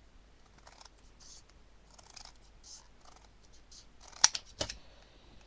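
Scissors cutting through card: a run of soft snips, then two sharper, louder snaps a little after four seconds in.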